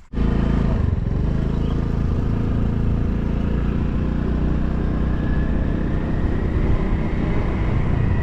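Motorcycle engine running steadily, with loud engine and road noise that cuts in suddenly at the start and holds level throughout.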